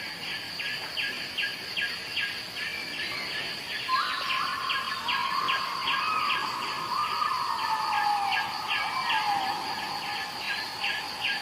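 Outdoor chorus of chirping insects and birds: a fast, regular pulsing over a steady high ring, with a longer call sliding down in pitch in the middle.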